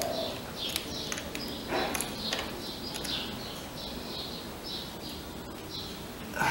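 A bird chirping in a steady series of short, high chirps, about two a second. A few light clicks come from pliers working a piston wrist-pin clip.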